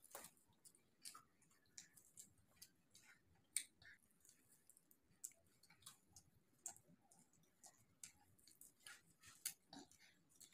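Quiet, irregular crunching and mouth clicks of crisp fried samosa pastry being chewed, with one sharper crunch about three and a half seconds in.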